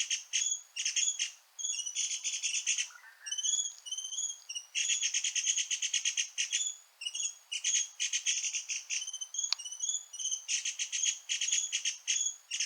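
Dark-backed sibias calling while feeding, a racket of fast rattling trills broken by short down-slurred chirps.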